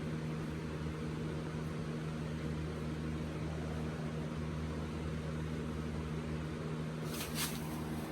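Steady hum of an electric fan motor running, with a brief hiss about seven seconds in.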